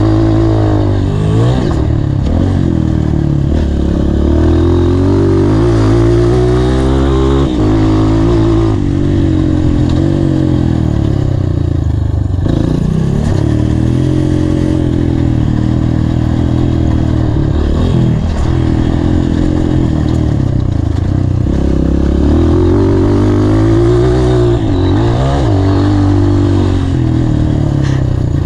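Honda CRF230F dirt bike's air-cooled single-cylinder four-stroke engine being ridden hard, revving up and down over and over. The pitch climbs under throttle and falls sharply every few seconds as the throttle is rolled off.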